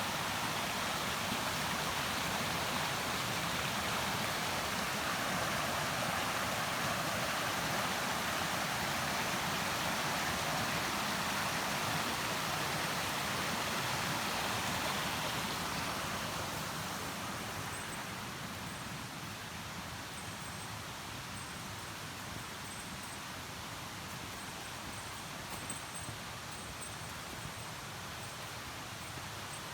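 Mountain stream rushing over rocks in a steady wash of water, growing quieter a little past halfway. A faint, high, on-and-off tone comes in during the second half.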